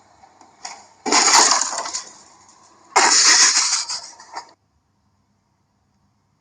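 Two loud crashes about two seconds apart, like something smashing, each trailing off over about a second; the sound cuts off suddenly about four and a half seconds in.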